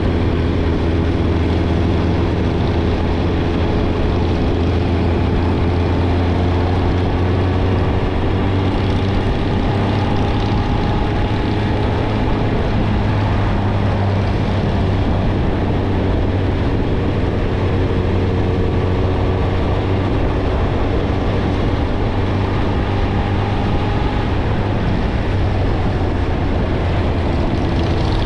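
Suzuki GSX-R1000's inline-four engine through a Yoshimura Alpha exhaust, cruising at gentle, steady throttle. A constant low drone carries the note, and its pitch drifts only slightly as speed changes.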